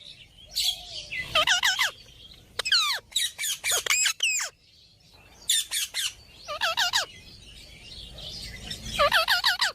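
Indian ringneck parrot giving shrill, squawky calls in quick bursts of several notes, with short pauses between the bursts.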